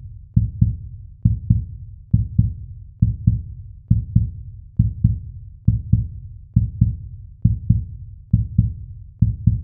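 Heartbeat sound effect: deep paired lub-dub thumps, a little under one pair a second, steady throughout.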